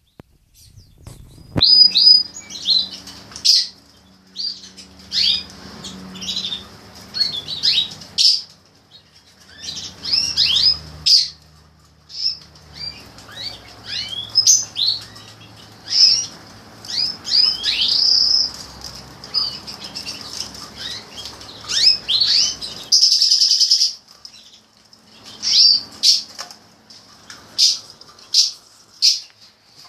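Giboso canaries calling with many short, high chirps and falling notes, in bouts with pauses between them. A short burst of noise comes about three quarters of the way through, likely wing-flapping.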